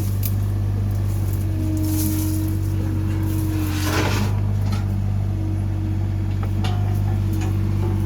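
Engine idling steadily, with a brief clatter about halfway through and a few light clicks near the end.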